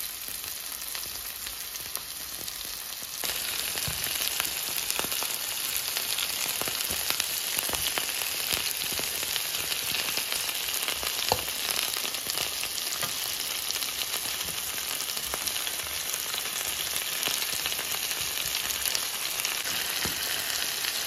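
Sliced onions frying in olive oil in a frying pan: a steady sizzle with fine crackles, which gets louder about three seconds in and then holds even.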